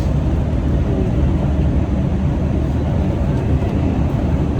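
New York City subway car running between stations, heard from inside the car: a steady low rumble of wheels on rail and traction motors.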